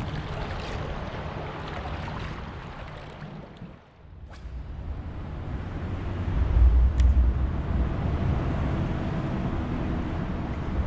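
Wind buffeting the microphone over rushing river current, a steady low rumble under a haze of water noise, heaviest in the second half. The sound dips briefly about four seconds in, and there are a few small clicks.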